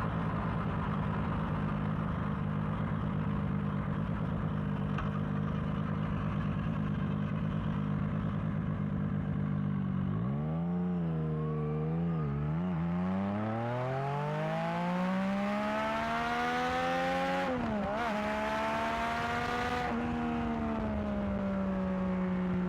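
Yamaha XSR900's inline three-cylinder engine breathing through a newly fitted aftermarket exhaust: it runs at a steady idle for about ten seconds, blips and dips a couple of times, then pulls up in a long rising note. A brief dip in pitch comes about 18 s in before it climbs again and settles back to a steady note.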